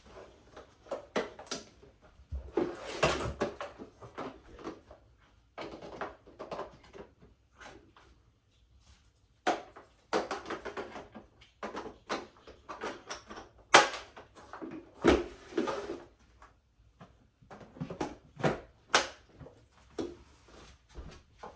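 Plastic parts of a bagless vacuum cleaner being handled, with irregular clicks and knocks and a few short rustling stretches. The motor is not running.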